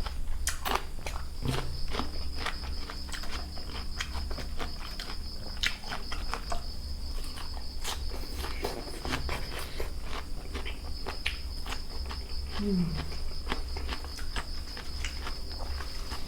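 Close-up eating sounds: irregular crunches, clicks and chewing from someone eating seafood and raw vegetables. Under them runs a steady high insect trill, which stops for about a second midway, and a low hum.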